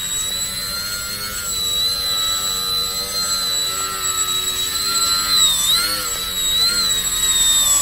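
RC foam airplane's motor and propeller running with a steady high-pitched whine, the pitch wavering up and down a few times about five to seven seconds in.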